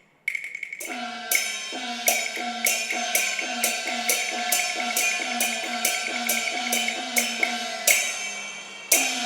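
Cantonese opera percussion: cymbals and gongs struck in a steady beat, about every half second, with a repeating pitched figure beneath, opening the piece.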